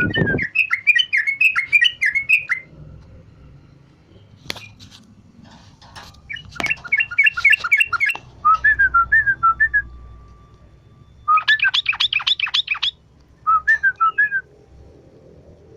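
Yellow-vented bulbul (trucukan) singing in short bursts of bubbly whistled notes, with pauses between phrases. About 11 seconds in it gives one fast, rapid run of notes.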